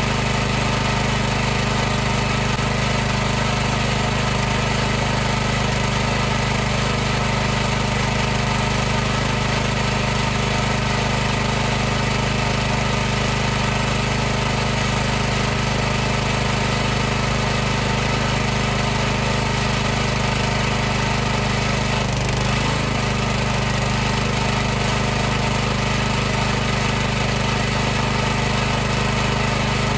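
High-pressure washer running continuously: a steady machine hum from its motor and pump with an even hiss over it, wavering slightly once about two-thirds of the way through.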